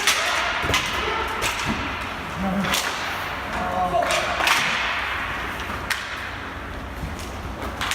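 Ball hockey play: several sharp, irregularly spaced cracks of sticks hitting the ball and each other, with players' brief calls.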